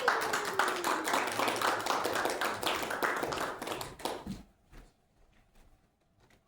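A small audience clapping for about four seconds, then dying away.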